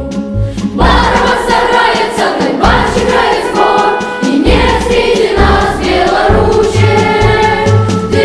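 A children's choir singing a slow song in held notes over a low accompaniment, a new phrase starting about a second in.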